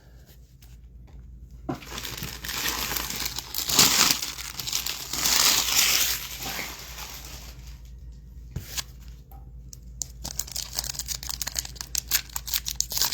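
Foil trading-card pack wrappers crinkling as they are torn open, followed near the end by a run of quick light clicks.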